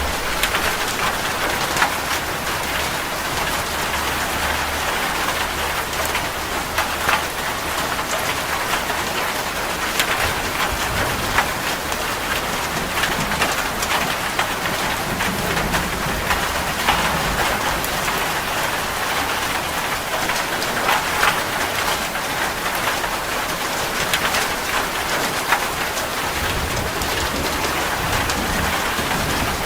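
Heavy rain drumming steadily on a metal roof, with many sharp individual drop strikes. A low rumble swells and fades now and then beneath it.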